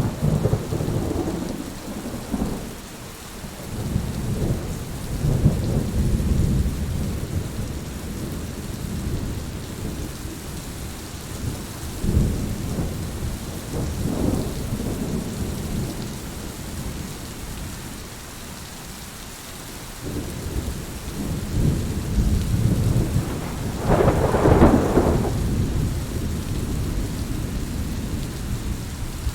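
Heavy rain falling steadily, with thunder rolling in several long low rumbles; the loudest clap comes near the end.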